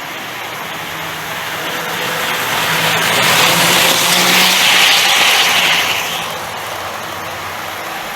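Hornby R057 OO gauge 0-4-0 tank engine model running on the track: a small electric motor whirring with the rush of wheels on rail. It grows louder from about three seconds in and drops back after about six seconds.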